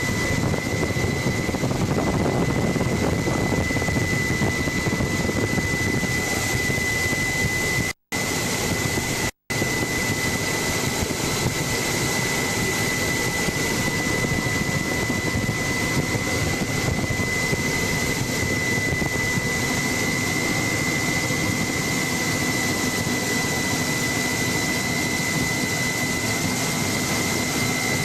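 Helicopter turbine and rotor noise heard on board in steady flight: a constant rushing drone with a steady high whine over it. The sound cuts out completely for an instant twice, about eight and nine and a half seconds in.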